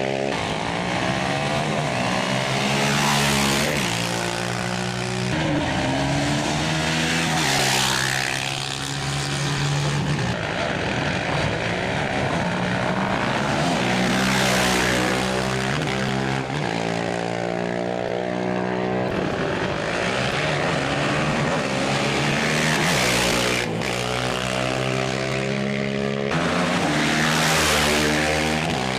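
Off-road racing motorcycle engines running hard, the pitch stepping up and down as they shift and change speed, with a swell of noise every few seconds as bikes pass.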